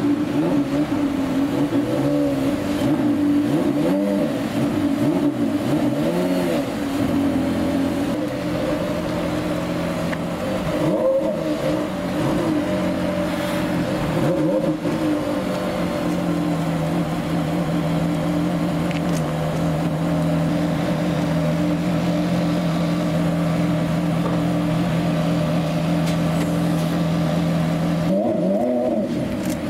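Porsche Carrera GT's V10 engine running at low speed, its pitch rising and falling gently with light throttle in the first half, then holding a steady idle until it changes again near the end.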